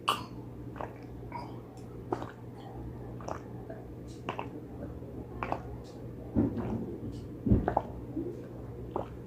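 Close-up chewing of spicy pig trotters: short wet mouth clicks and smacks about once a second, with a couple of heavier soft thumps later on.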